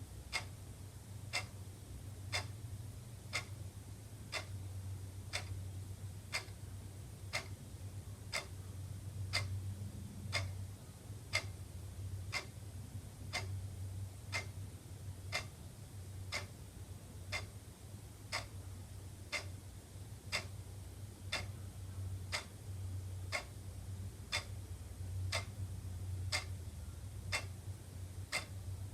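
Wall clock ticking steadily, one sharp tick about every second, over a low steady hum.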